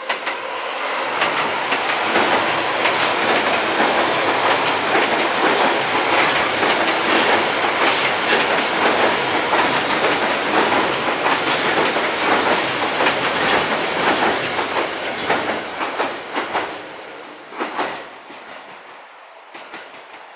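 Seibu 001 series Laview limited express electric train passing over a steel girder bridge, a loud rumble with rapid clacking of wheels over rail joints. It builds up in the first second and fades away over the last few seconds, with a few last clacks.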